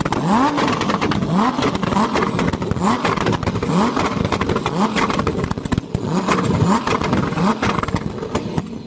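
A vehicle engine revved again and again in short blips, about one a second, each a quick rising pitch that drops back, over a steady crackle of pops.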